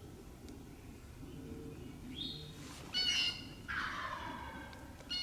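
Wild bird calls in the woods: a short high call about two seconds in, then louder calls around three seconds in, one sliding down in pitch, and another near the end.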